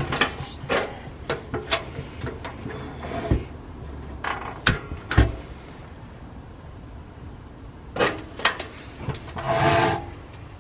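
A small portable heater being handled and switched on: a scatter of sharp clicks and knocks, then a short rushing sound near the end.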